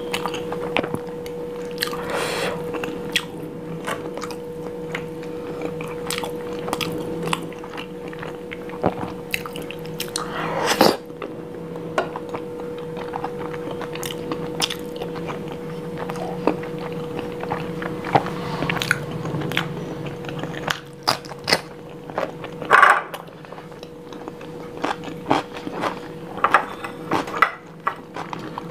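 Close-miked chewing and mouth sounds of someone eating spicy dum aloo by hand: many sharp wet clicks and smacks of lips and teeth at an irregular pace. A faint steady hum runs underneath.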